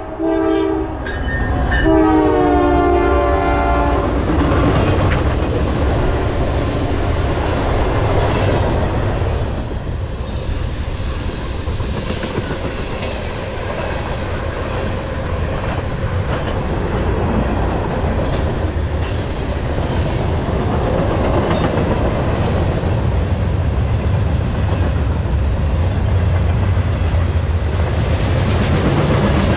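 Freight train's diesel locomotive sounding its multi-tone horn, a short blast and then a longer one whose pitch drops as the locomotive passes. Then a steady rumble of tank cars rolling by, wheels clacking over the rail joints.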